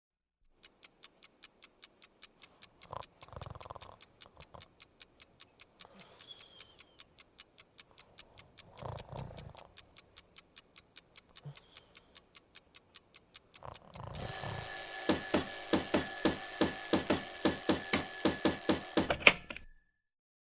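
Clock ticking about four times a second, with a few soft low sounds between the ticks, then a bell alarm clock ringing loudly for about five seconds, stopping abruptly just after a sharp knock.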